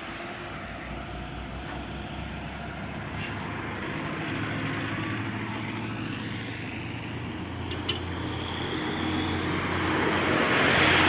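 Heavy vehicle engines running steadily amid road traffic, with a vehicle passing close and getting louder near the end. A short sharp click about eight seconds in.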